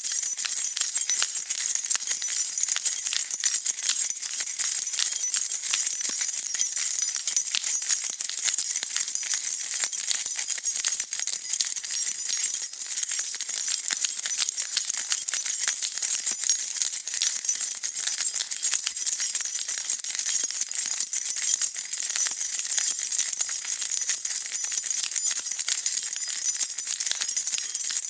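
A bunch of metal keys being shaken and jingling continuously, a dense run of small bright clinks with no pauses.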